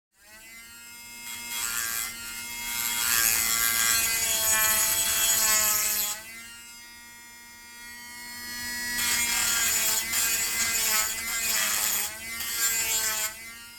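A small electric motor buzzing in two bursts of a few seconds each, its pitch wavering as if under load, over a steady low hum.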